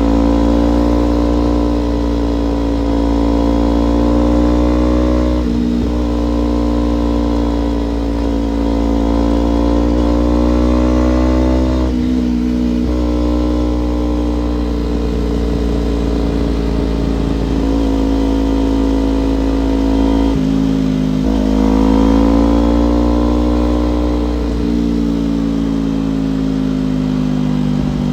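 Kawasaki Ninja parallel-twin motorcycle engine heard while riding, its pitch climbing steadily and then cutting off sharply at gear changes about five, twelve and twenty seconds in, over a steady rumble of wind.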